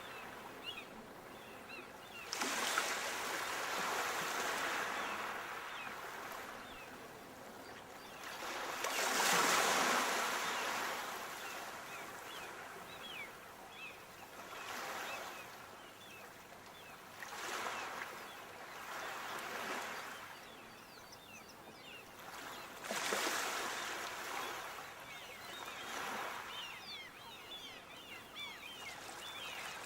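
Sea waves breaking on the shore: surf washing in as a series of swells every few seconds, the biggest about nine seconds in, with the hiss of the water between them.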